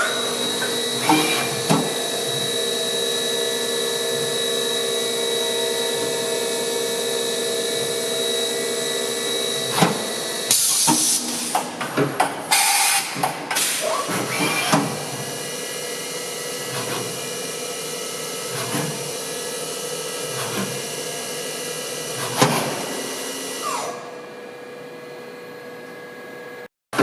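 Hardinge GX480 CNC vertical machining center running: a steady whine made of several held pitches, broken by short rushing bursts a little over a third of the way in. The set of pitches shifts about halfway through, and near the end the high whine drops away to a quieter hum.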